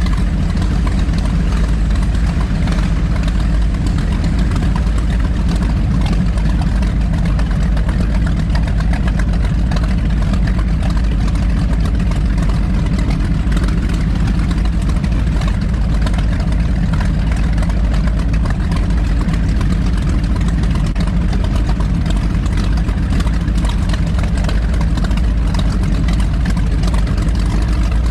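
Twin V8 engines of an Avanti 33 powerboat running with a steady low drone, under an even rushing noise.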